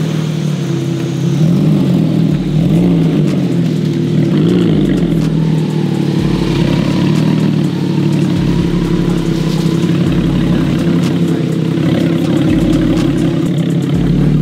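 Porsche Boxster engine idling steadily, with a slight wavering in pitch in the first few seconds.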